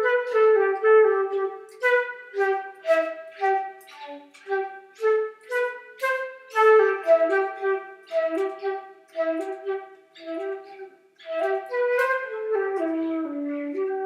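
Music: a solo melody on a wind instrument, a run of short notes that steps down into a long held note near the end.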